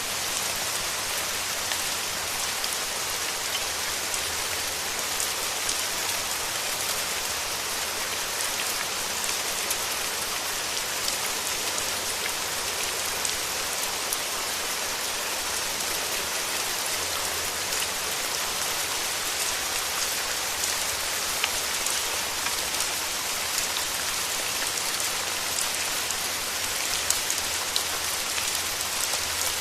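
Steady rain falling on foliage and surfaces, a dense even hiss with many small drop patters.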